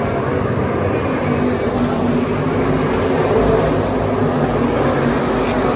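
Field of IMCA stock cars racing, their V8 engines running hard together in a dense, steady drone that swells a little around the middle.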